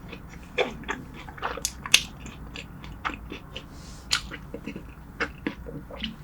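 A person chewing food close to the microphone: irregular wet mouth smacks and clicks, several a second.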